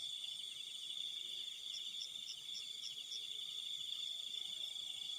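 Crickets and other night insects trilling steadily in a high band, with a short run of six quick high pips, about three a second, a little under two seconds in.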